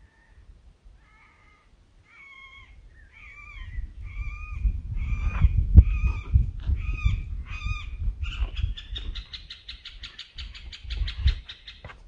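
A bird calling: a series of repeated notes about twice a second that grow louder, then break into a fast, higher trill about two-thirds of the way in. A low rumble runs underneath, with one sharp knock near the middle.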